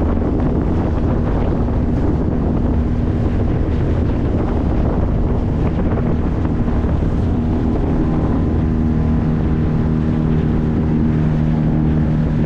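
9.8 hp outboard motor running steadily, driving a small boat at speed, with wind buffeting the microphone and water rushing along the hull. The engine's hum stands out more clearly in the last few seconds.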